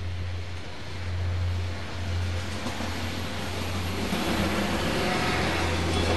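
Diesel regional train approaching and rolling over a level crossing, its running noise growing louder from about four seconds in. A steady low hum lies underneath throughout.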